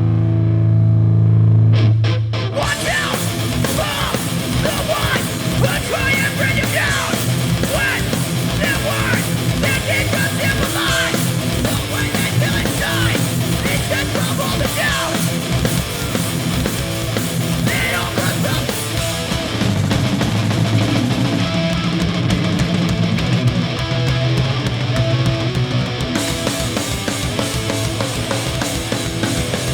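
Hardcore punk band playing live: a held, distorted guitar chord rings for about two seconds, then the full band comes in with fast drums and heavily distorted guitars.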